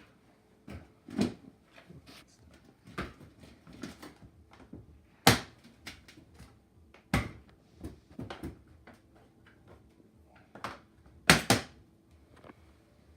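Hands handling hard objects: an irregular string of sharp clicks and knocks, the loudest about five and seven seconds in and a quick double knock near the end, over a faint steady hum.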